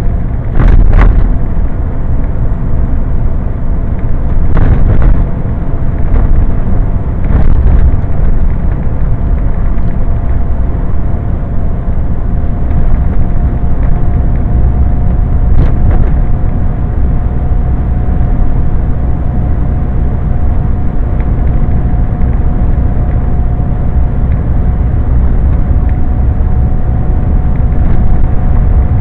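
Scania truck on the move, heard from inside the cab: a loud, steady low rumble of engine and road, with a thin steady whine over it. Several sharp knocks come in the first eight seconds, and one more about halfway through.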